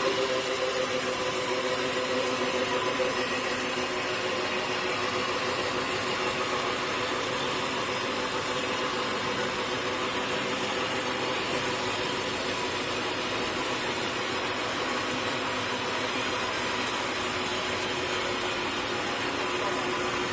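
Sawmill machinery running steadily, a continuous motor hum with a few held tones over a steady rushing noise.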